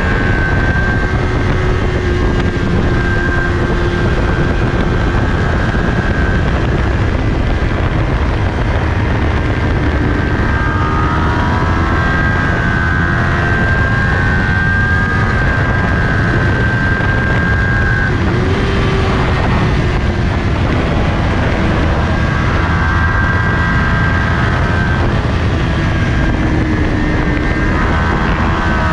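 2020 Kawasaki Ninja 400's parallel-twin engine running hard at racing speed, with heavy wind rush on the bike-mounted camera. The engine note holds steady along the straight, then changes pitch around two-thirds of the way in and again near the end as the speed comes down for a corner.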